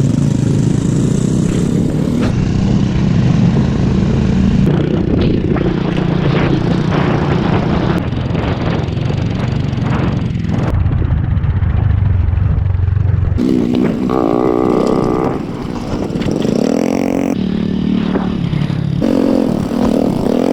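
Motor scooter engines running on a rough dirt track, the pitch rising and falling as the riders open and close the throttle. The sound changes abruptly several times.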